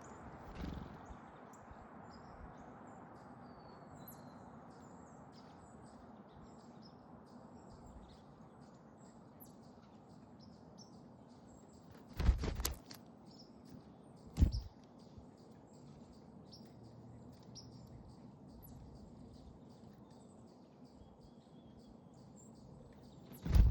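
Small backyard songbirds chirping at a feeder, many short high calls throughout, over a faint steady hiss. Three loud sharp knocks stand out: a brief cluster about halfway, another about two seconds later, and one at the very end.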